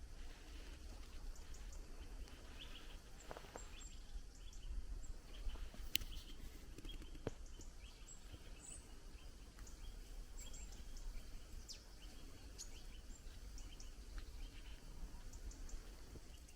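Forest ambience: faint, scattered bird chirps and calls over a steady low rumble, with a few sharp clicks and snaps.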